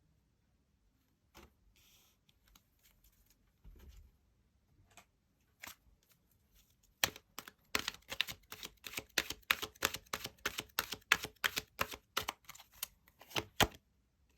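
Tarot cards handled by hand: a few soft taps and rustles, then from about seven seconds in a quick run of sharp card clicks, about four or five a second, as the deck is shuffled. The clicks stop shortly before the end.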